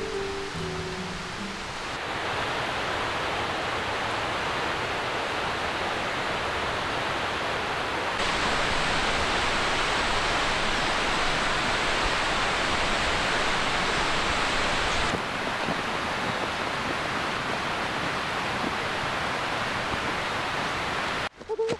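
Steady rain falling, an even hiss that gets louder and brighter for several seconds in the middle.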